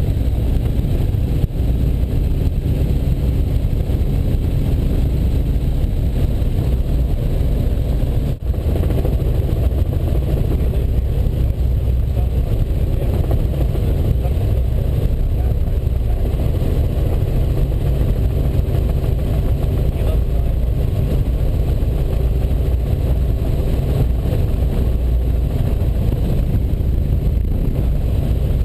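Robinson R44 Raven helicopter in flight, heard from inside the cabin: a steady drone of its piston engine and rotors.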